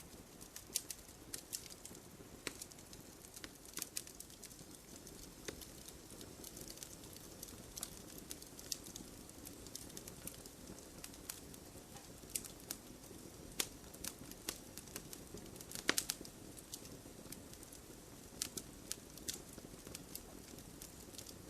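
Wood fire crackling: irregular sharp pops and snaps over a faint low hiss of burning, with a cluster of louder pops about sixteen seconds in.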